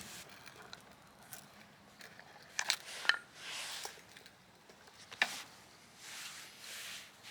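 A few sharp clinks and knocks of objects being handled, the loudest about three seconds in, with short hissing rustles between them.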